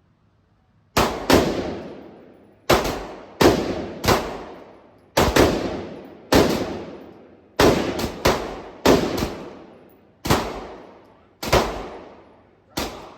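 Gunfire: about sixteen shots fired at an uneven pace, some singly and some in quick pairs, after about a second of quiet. Each shot is followed by a long echoing tail, as in an enclosed range.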